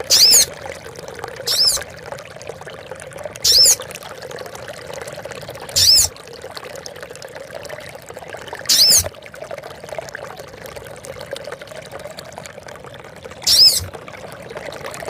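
Female sogon bird's call, six short high calls at uneven intervals, each a quick up-and-down sweep in pitch, the second fainter. It is a female calling a male. Steady trickling water runs underneath.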